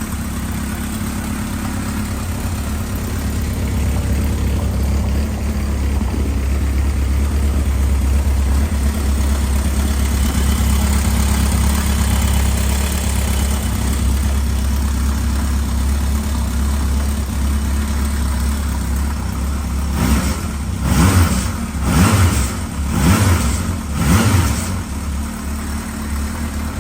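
Kawasaki KZ650B1's air-cooled inline four-cylinder engine idling steadily just after an oil and filter change, with about four short throttle blips near the end.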